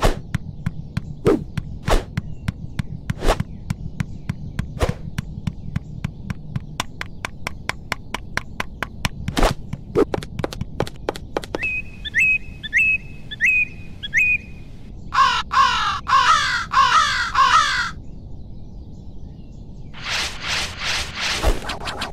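Irregular sharp taps of a bird pecking at wood through the first half, then a short run of high, evenly repeated calls, then loud harsh crow caws, which return near the end.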